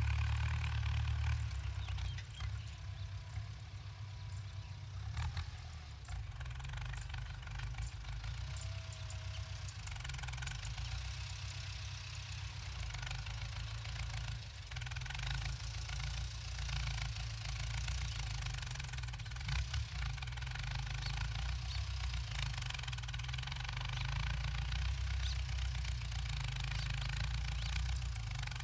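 Ford 6600 tractor's three-cylinder diesel engine running steadily under load while plowing, a deep continuous drone with scattered short clicks.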